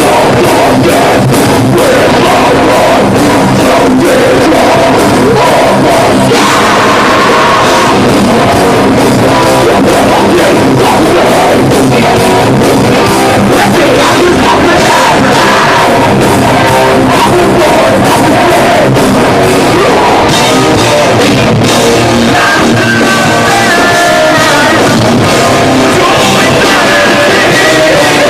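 Heavy metal band playing live: distorted guitars, bass and fast drums at full volume, with singing over them.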